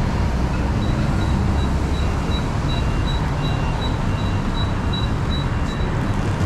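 Steady city traffic rumble, with a high electronic beeping of about three beeps a second starting about a second in and stopping near the end.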